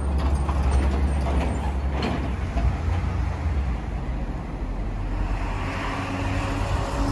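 Railway train running close by: a low rumble, strongest for the first few seconds and then easing, with faint high ticks near the start. A steady hum-like tone sets in near the end.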